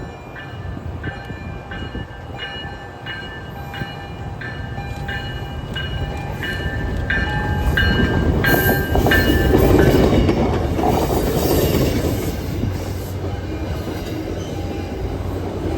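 MBTA commuter train pulling out of the station. A bell strikes about three times every two seconds for the first eight seconds or so, over the rumble of the locomotive and cars. The rumble swells to its loudest around ten seconds in, then eases off.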